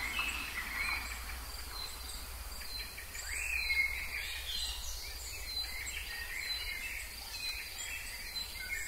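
Several birds chirping and calling over a steady high insect drone, with a low hum underneath.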